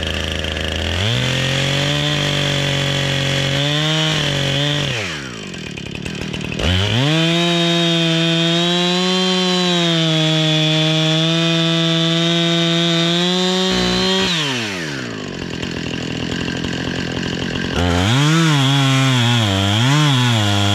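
Husqvarna two-stroke chainsaw cutting wood. It rises from idle to high revs for about four seconds, drops back, then cuts at high revs for about seven seconds more. It settles to idle again and is blipped up and down in quick revs near the end.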